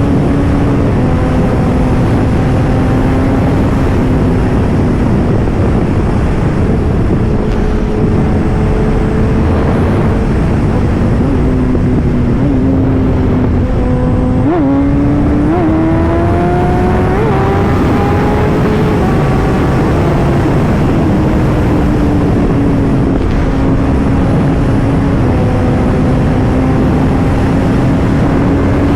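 Kawasaki ZX-10R's inline-four engine running at a steady cruise under loud wind rush on the microphone. About halfway through, after a few quick blips, its note rises as the bike accelerates, then settles back to a steady pitch.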